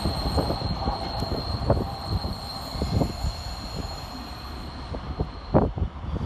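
ScotRail High Speed Train with Class 43 power cars pulling away around a curve: irregular clacking of the wheels over the rail joints, with a steady high-pitched wheel squeal that stops about a second before the end. There is one louder clack near the end.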